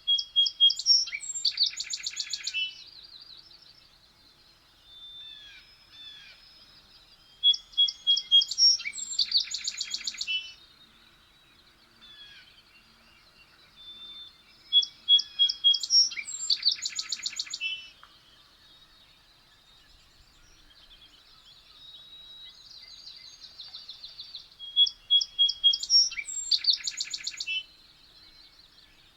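A songbird singing the same short song four times. Each song is about three seconds long: a few clear notes, then a fast trill, then a short ending. Softer chirps come between the songs.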